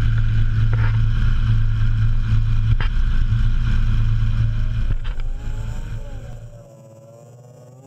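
BMW S38 straight-six engine running with a loud, steady low drone, with a few sharp clicks over it. Around six seconds in it drops away sharply, leaving a much quieter tone that slowly rises and falls in pitch.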